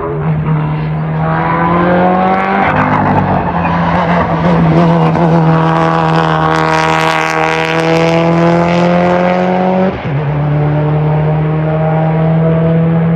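Hillclimb race car accelerating hard past the spectators, engine revs climbing steadily. It shifts up about two and a half seconds in and again near ten seconds. The sound is loudest and fullest in the middle, as the car goes by.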